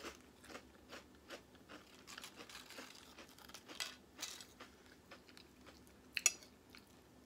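A person chewing crunchy protein chips topped with chicken salad: faint, irregular crunches, with a single sharper tap a little after six seconds.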